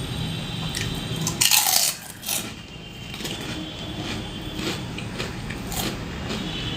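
Close-miked eating of crunchy fried snacks: a loud crunching bite about a second and a half in, a second shorter crunch just after, then chewing with small clicks. A low steady hum runs underneath.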